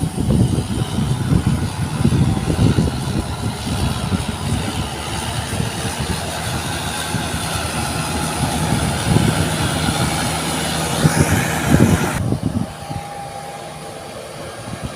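Tractor engine running under load, an uneven low rumble. About twelve seconds in, the hiss above it cuts off suddenly and the sound drops a little quieter.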